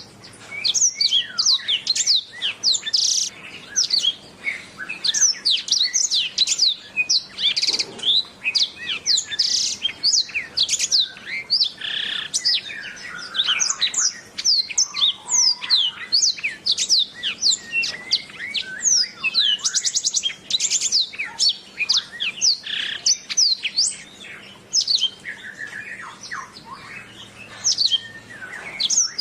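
Domestic canary singing a long, continuous song of rapid high chirps, trills and quick down-slurred whistles, with hardly a pause.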